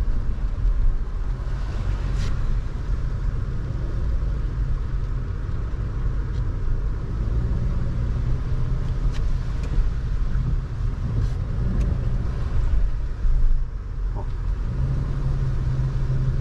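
Car driving slowly, heard from inside the cabin: a steady low rumble of engine and tyres on the road, with a few faint clicks.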